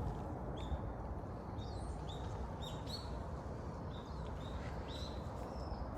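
A small songbird giving short, high chirps, about one or two a second, over a steady low background rumble.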